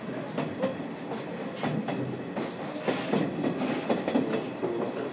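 Running sound inside a 50-series passenger coach, its wheels clattering over rail joints in irregular knocks under a steady rumble. The DE10 diesel helper locomotive is coupled behind the coach and pushing, doing most of the work for the ailing steam engine at the head.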